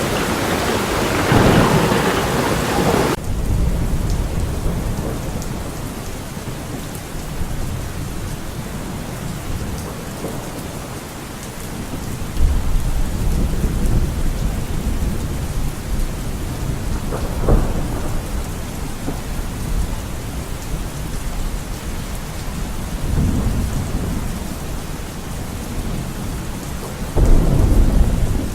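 Thunderstorm: steady rain with several rolls of low thunder, the loudest near the end. A brighter, louder hiss of rain cuts off sharply about three seconds in.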